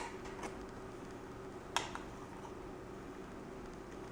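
Quiet kitchen room tone with a steady faint hum, and a spoon clicking against a dish a little under two seconds in while glaze is spooned over cinnamon rolls.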